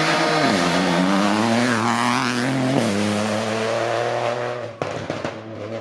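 Rally car engine at full throttle, its pitch climbing and then dropping sharply at gear changes, with a few sharp cracks near the end.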